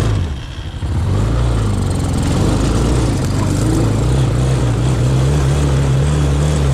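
Engine of an off-road vehicle (quad bike or motorbike) revving up about a second in, then running steadily under way.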